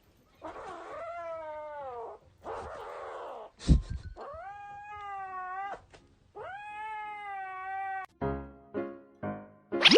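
Cat meowing in long drawn-out calls: the first slides down in pitch, the next two are held steady. A single thump comes about three and a half seconds in. Piano music starts near the end.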